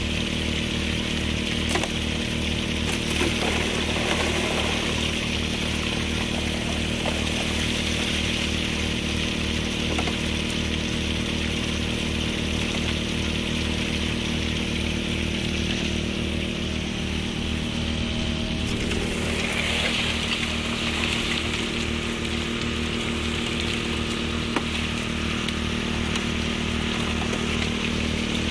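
Engine-driven water pump running steadily at constant throttle, feeding water that rushes through a gold sluice.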